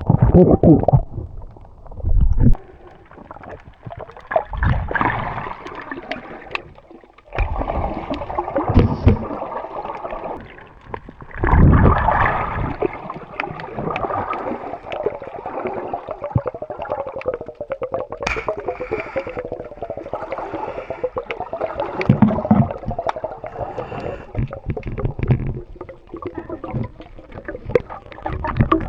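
Muffled underwater water noise: gurgling and bubbling against the microphone, rising and falling in uneven surges, with a fine crackle of small bubbles.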